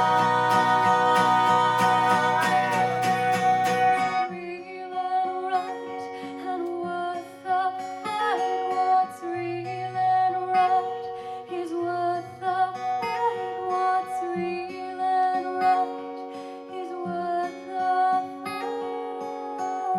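Live acoustic guitar music. It opens with loud strummed chords under a held note, then drops about four seconds in to quieter fingerpicked single notes.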